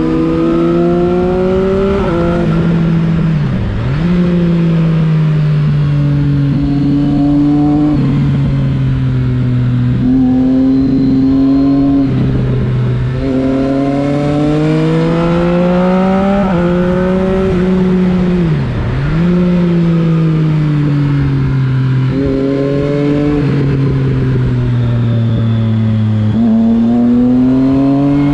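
Motorcycle engine under way, repeatedly accelerating through the gears: the pitch climbs, then drops sharply at each shift, with a couple of brief dips where the throttle is closed and reopened.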